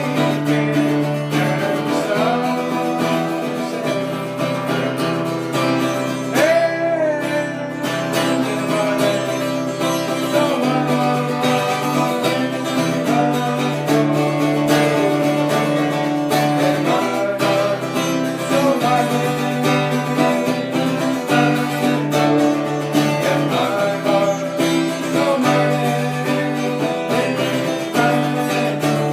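Acoustic guitar music: plucked strings over sustained low bass notes, playing without a break.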